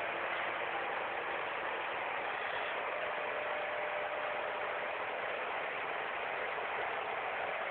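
Subaru Impreza Prodrive's flat-four engine running at a steady speed, recorded through a mobile phone's microphone. It makes an even, noisy sound with faint steady tones and no revving.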